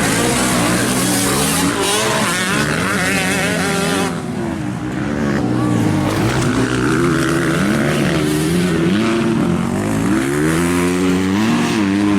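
Several motocross bike engines revving up and down on the track, their pitches rising and falling and overlapping as they accelerate and back off.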